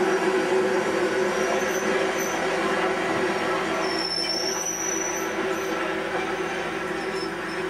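Passenger coaches rolling past at low speed, a steady rumble of wheels on the rails slowly growing quieter, with a thin high wheel squeal about four seconds in.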